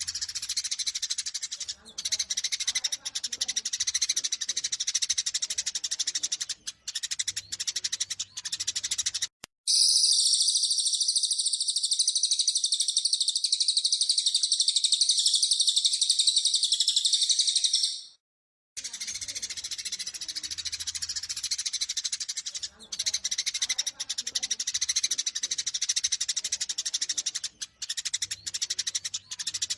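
Eurasian tree sparrows chattering rapidly and excitedly in their high-pitched fighting calls. From about a third of the way in there is a louder, unbroken high twittering that lasts about eight seconds and then cuts off abruptly, and after a brief gap the sparrow chatter resumes.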